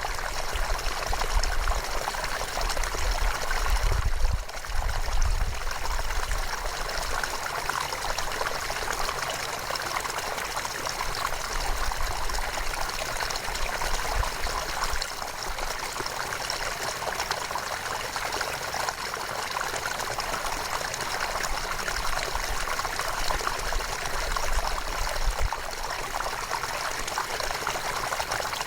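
River water flowing steadily, with trickling. A low rumble comes and goes, strongest in the first few seconds.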